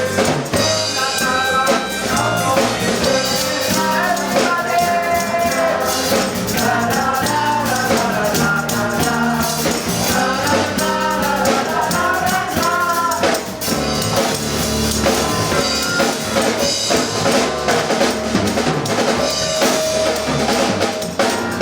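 A live band plays a song: a drum kit keeps the beat under the band, and a sung melody runs through the middle.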